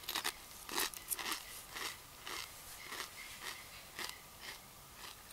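Crunchy Doritos tortilla chips being chewed with the mouth closed, about two crunches a second, growing fainter toward the end.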